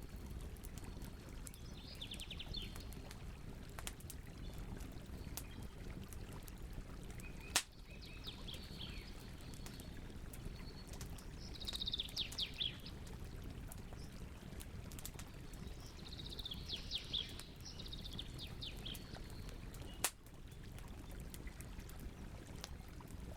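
Wood fire burning with a steady low rush, light crackling and three sharp pops, at about a third of the way in, just before halfway, and near the end. Birds call in short rapid trilled phrases four times over the fire.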